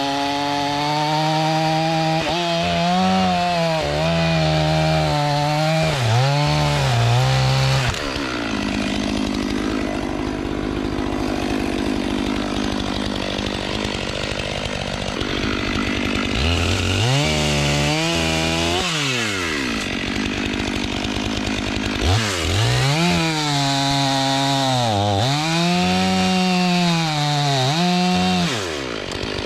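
Stihl MS500i fuel-injected two-stroke chainsaw bucking logs, its engine pitch dipping and rising again and again as it is pushed into the cut and eased off.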